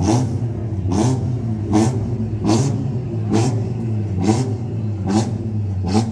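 Car engine revved in quick repeated blips, about once a second, each rev rising in pitch and ending in a sharp exhaust crack, over a steady low idle.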